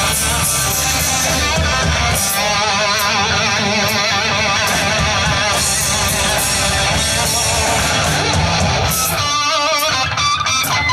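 Live hard rock band playing an instrumental passage led by electric guitar lead lines with heavy vibrato, over bass and drums. Fast repeated guitar figures come near the end.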